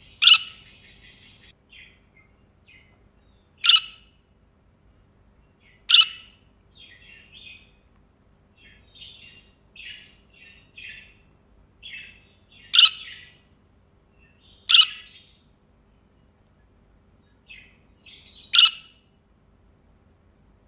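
Budgerigar calling at close range: six loud, sharp chirps a few seconds apart, with softer chattering warble between them.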